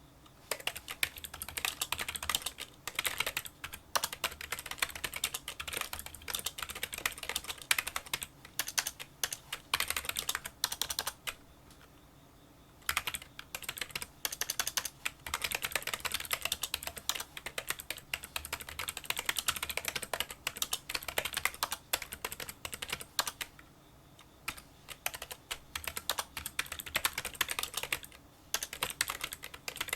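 Continuous touch-typing on a Kinesis Freestyle Solo split keyboard with membrane key switches: a rapid stream of small, light clicks, broken by short pauses about 12 seconds in, again about 24 seconds in, and briefly near the end.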